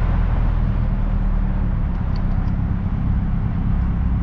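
Engine of a small open-top MG Midget running steadily, a low hum under a steady rush of road and wind noise heard from the open cockpit.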